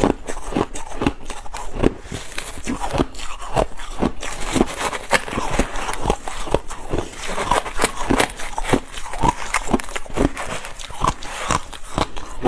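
Ice being chewed and crunched in the mouth close to the microphone: a run of sharp crunches, several each second.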